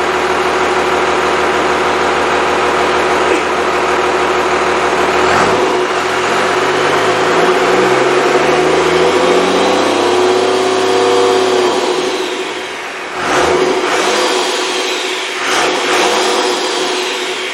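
Freshly rebuilt Cummins 5.9L 12-valve inline-six diesel running: it idles steadily, is revved up about five seconds in and held for several seconds before dropping back to idle, then is blipped three times in quick succession near the end.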